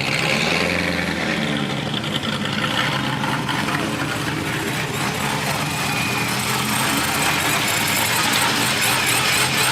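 Car engines idling, with one briefly rising and falling in pitch during the first second or so, then holding a steady idle.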